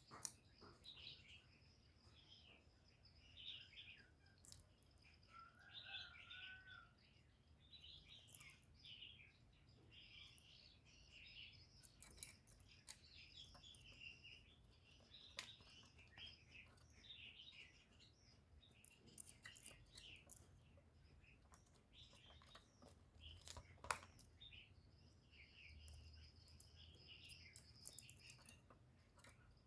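Faint, scattered chirping of small birds in the background, with occasional light clicks and a faint steady high-pitched tone. No loud dove cooing stands out.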